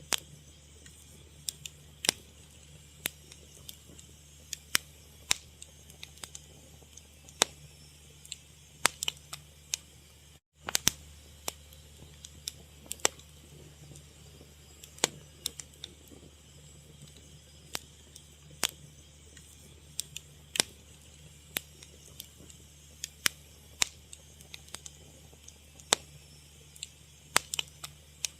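Fire crackling: irregular sharp pops and snaps, several a second at times, over a low steady hum, with a momentary dropout about ten seconds in.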